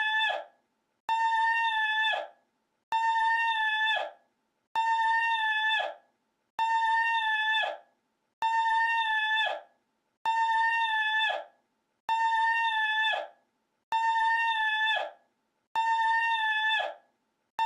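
A looped meme cry: one short, high, steady-pitched wail lasting about a second, repeated identically about every 1.8 s, with dead silence between repeats.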